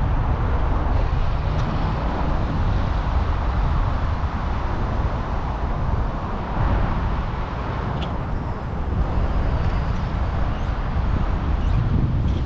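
Wind rumbling on the microphone, mixed with road traffic noise.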